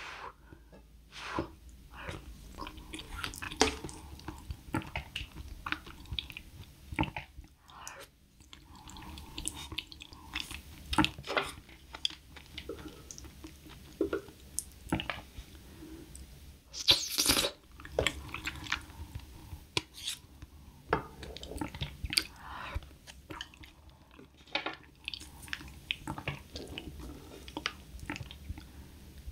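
Close-miked chewing and wet mouth sounds of eating soft rice porridge and sea urchin roe: irregular small smacks and clicks throughout, with one louder rushing noise lasting about half a second a little past the middle.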